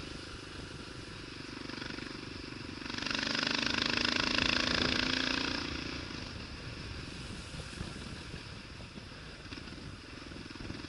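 Kawasaki KLR motorcycle's single-cylinder engine running under load on a steady climb, with riding noise. It swells louder for a few seconds about three seconds in, then settles back.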